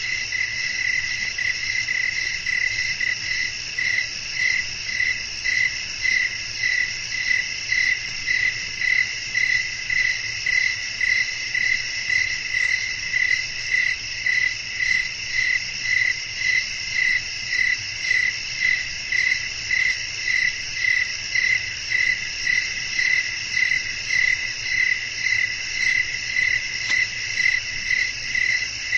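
Crickets chirping at night: a continuous high trill with an even pulse of about one and a half chirps a second.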